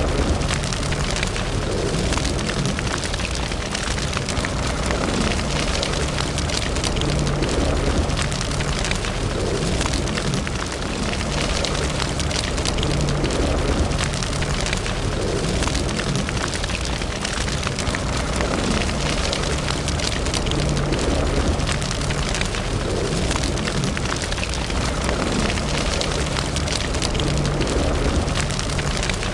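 Wood fire burning in a fireplace, crackling and popping continually over a steady hiss.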